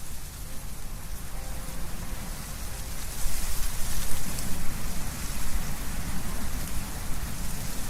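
Wind blowing through trees, leaves rustling, with a gust rising about three seconds in.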